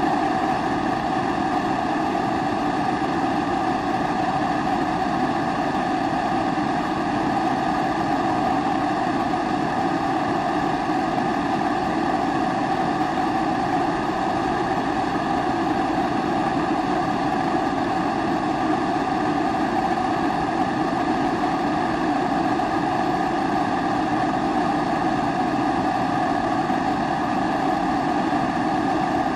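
Pressurised kerosene primus stove burning, its burner giving an even, steady rushing sound with no breaks.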